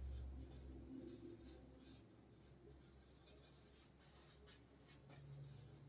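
Faint scratching of handwriting: short, irregular pen or marker strokes.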